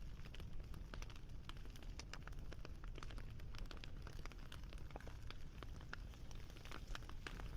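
Wood fire crackling: many sharp, irregular pops and snaps, several a second, over a steady low rumble.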